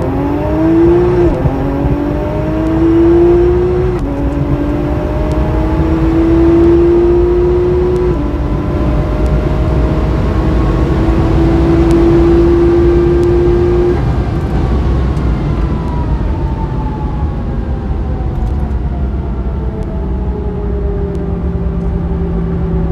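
Porsche 911 Turbo (991.1) twin-turbo flat-six at full throttle, heard from inside the cabin. It pulls up through the gears with quick PDK upshifts about one, four and eight seconds in, then climbs steadily until the throttle is lifted about fourteen seconds in, and its note falls away as the car coasts down.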